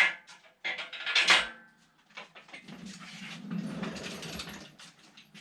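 Metal clanking: two loud sharp clatters near the start, then a few seconds of softer, continuous rattling.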